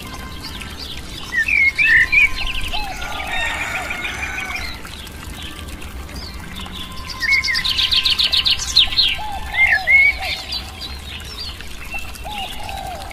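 Several birds singing: short chirps, upward-slurred calls and fast trills, loudest in two bouts about a second in and again after about seven seconds.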